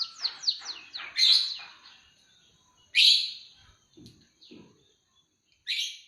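Songbird singing a canary-style song: a fast trill of repeated down-sweeping notes for about a second, then loud harsh bursts about a second in, at three seconds and near the end, with short pauses between. Two soft low knocks come around four seconds.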